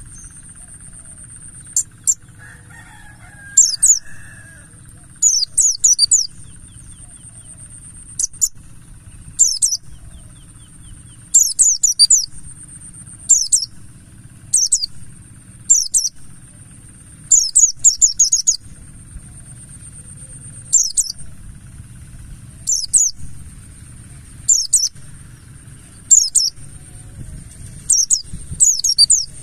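Pleci buxtoni white-eye singing in short bursts of quick, thin, high chirps that fall in pitch, one burst every second or two, over a steady high-pitched whine and a low hum.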